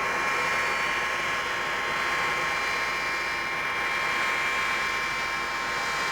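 Avro Vulcan B2's Rolls-Royce Olympus turbojets running steadily: a constant jet rush with a steady high whine over it.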